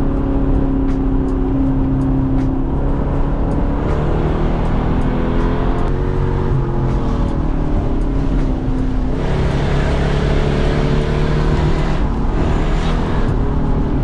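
Lexus SC400's 4.0-litre V8 with a loud exhaust, pulling hard while driving: the engine note climbs and drops back a couple of times as it shifts through the gears.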